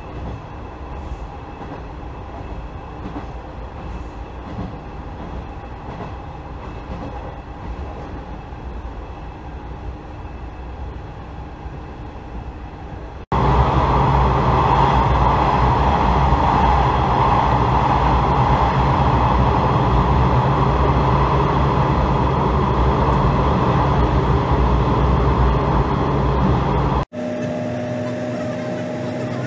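Sanriku Railway diesel railcar running, heard from inside the passenger cabin as a steady rumble. About halfway in it turns abruptly much louder as the railcar runs through a long tunnel. Near the end it drops suddenly to a quieter run.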